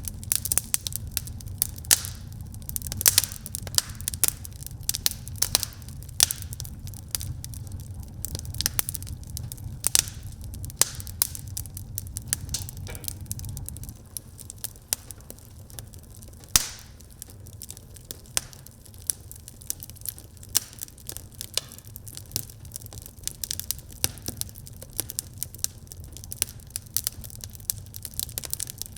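Wood fire burning in a fireplace, crackling and popping steadily with many sharp snaps over a low rumble. The rumble drops about halfway through, and one loud pop stands out a little later.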